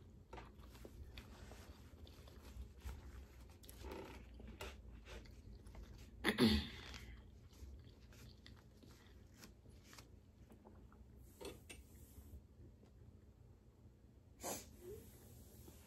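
Quiet close-miked eating of crawfish: chewing, lip smacking and small clicks of shell, with one louder short sound a little past six seconds in and a smaller one near the end.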